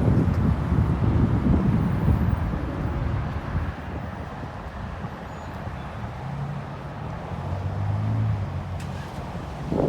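Road vehicles passing on a busy street: a loud low rumble of traffic fading after the first few seconds, then a steady engine hum of another vehicle going by, with wind buffeting the microphone.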